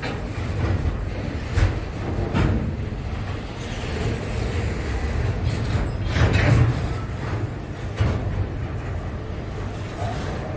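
Freight train's container wagons rolling past with a steady low rumble, broken by several clanks and knocks.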